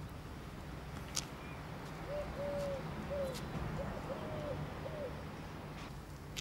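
A pigeon cooing: a short run of about six low, even coos in the middle, over a steady low hum and a few faint clicks.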